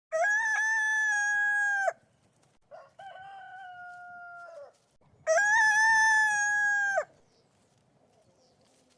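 Three long animal calls, each held at a steady pitch. The first and last are loud and the middle one is quieter.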